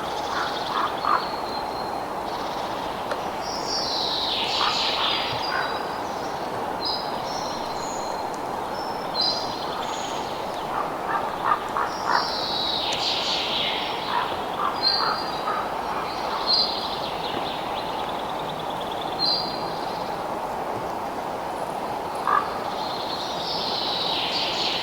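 Birds chirping and calling over a steady, even rushing noise. A louder call that falls in pitch comes back about every nine seconds, with short high chirps in between.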